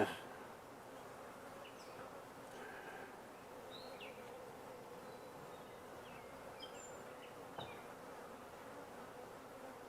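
Honey bees buzzing at an opened hive while frames are worked: a steady, faint hum, with a light knock about seven and a half seconds in.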